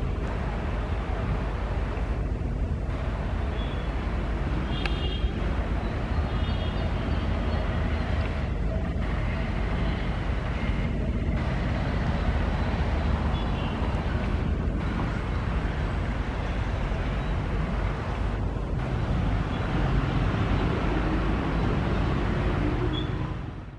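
A passenger train running past, its wheels on the rails making a steady, dense rumble, with faint high-pitched tones in the first several seconds.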